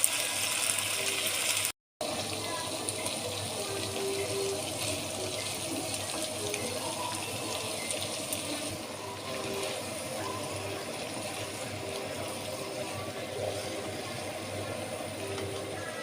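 Water running steadily, as from a tap into a sink, broken by a brief cut to silence about two seconds in.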